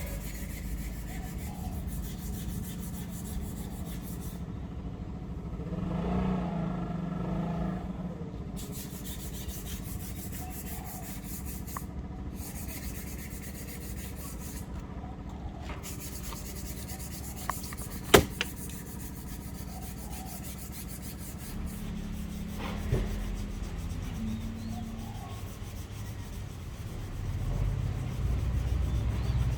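Steady hand rubbing on a wooden axe handle, with one sharp click just past halfway.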